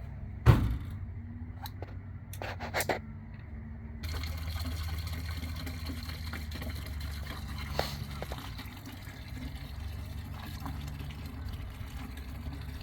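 A thump and a few plastic clicks, then liquid cleaning solution pouring and splashing steadily from about four seconds in.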